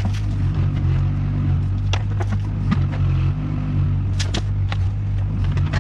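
Engine of a digging machine running steadily while it loads sand into a dump truck bed, with scattered knocks and clanks.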